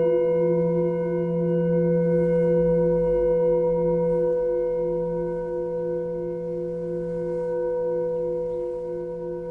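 A singing bowl ringing out after a strike, several steady tones slowly fading, with a slow pulsing wobble in the lowest tones.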